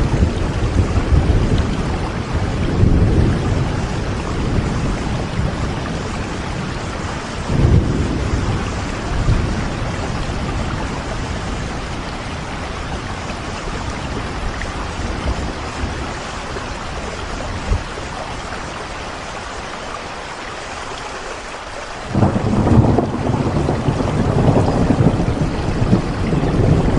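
Steady rain hiss over deep low rumbling that swells and fades, dies down for a while, then comes back suddenly near the end.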